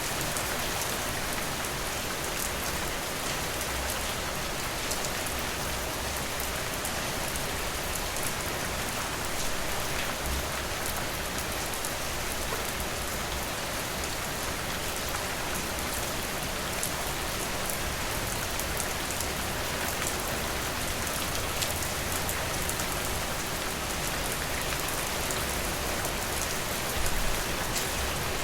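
Steady rain falling, an even hiss with many separate drops ticking on a hard surface. A brief low rumble rises near the end.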